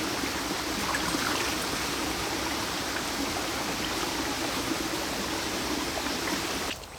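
Fast-flowing stream rushing steadily, swollen by recent storm rain. It cuts off abruptly near the end to a much quieter background.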